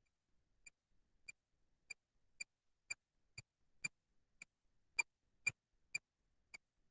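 Faint, regular electronic ticking from a ghost-hunting device, about two sharp ticks a second, a little louder around the middle.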